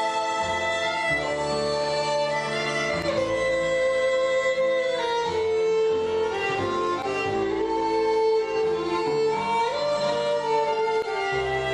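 Fiddle playing a slow waltz melody, sliding into some notes, with guitar and double bass backing.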